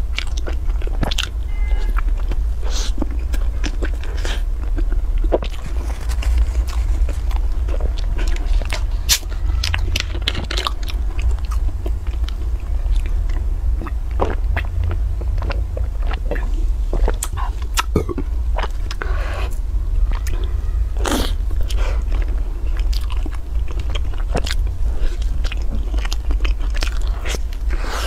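Close-miked biting and chewing of crispy-coated fried balls with a soft filling: many short crunches and wet mouth sounds, with a drink from a bottle partway through. A steady low hum runs underneath.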